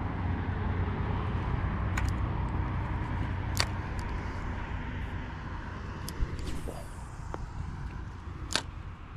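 Steady outdoor background noise with a low rumble, broken by a few sharp clicks: about two seconds in, three and a half seconds in, and near the end.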